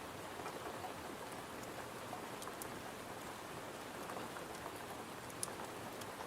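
Steady rain pattering against a window, with scattered sharp ticks; the loudest tick comes about five and a half seconds in.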